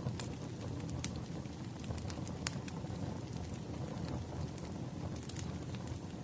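Wood fire crackling: a steady low rumble of burning logs with sharp pops scattered through, the strongest about a second in and about two and a half seconds in.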